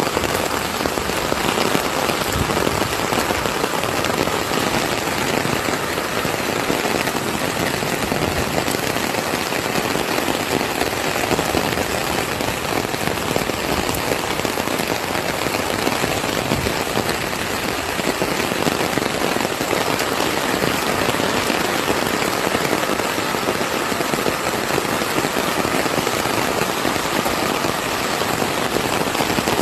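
Heavy rain falling and pattering on surfaces, a steady dense hiss with fine crackle of drops throughout.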